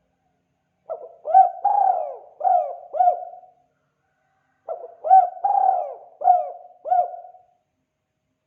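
Spotted dove (tekukur) cooing its 'kuk 2' call: two phrases a second apart, each of about five coos that bend down in pitch.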